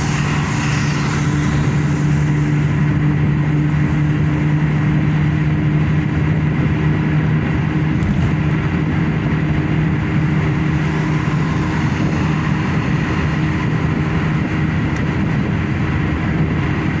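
Car driving steadily: constant engine and tyre noise with a low, even hum.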